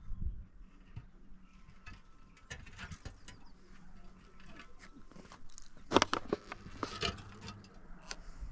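Irregular light knocks and scrapes, with a louder clatter of several sharp knocks about six seconds in and another about seven seconds in.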